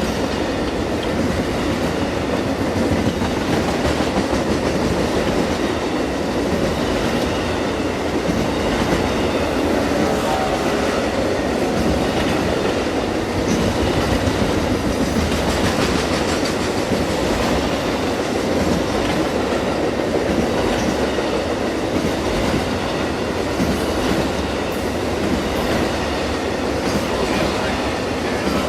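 Cars of Amtrak's Auto Train, Superliners and auto carriers, rolling steadily past, with a continuous rumble of steel wheels on rail and clickety-clack over the rail joints.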